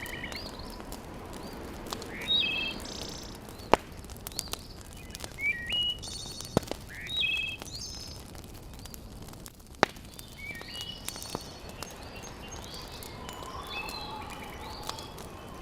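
Small birds chirping repeatedly in short, quick notes, with a few sharp pops from a wood fire crackling, about three in all.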